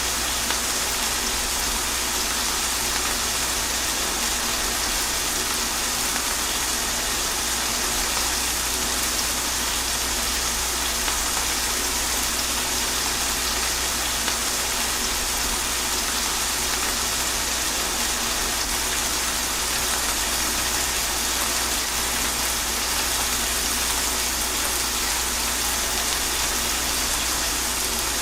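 Steady rain falling without a break: an even hiss with a low rumble beneath it.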